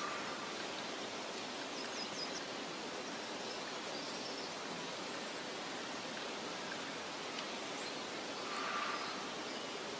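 Meadow ambience: a steady soft rustle of wind, with a quick run of four faint, high bird chirps about two seconds in and a few faint calls later.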